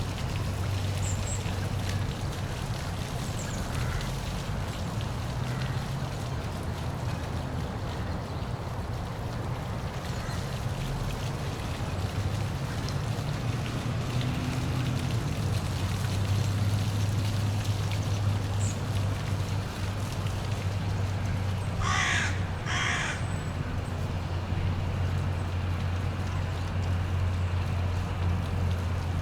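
Steady rush of a park waterfall with a low hum underneath. Two short, harsh bird calls sound close together about three-quarters of the way through.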